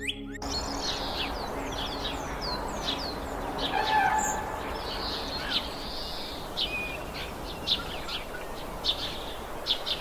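Several wild birds chirping and calling over a steady background hiss: many short, high chirps, most sliding downward, repeat throughout, with a louder call about four seconds in.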